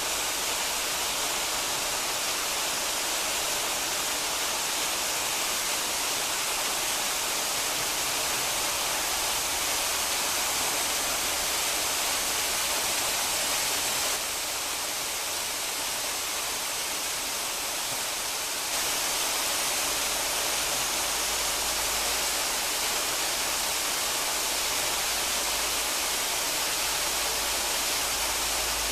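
Steady wind rush on the microphone of a camera riding on a moving motorcycle: an even hiss with little engine sound showing through. It drops a little for a few seconds around the middle.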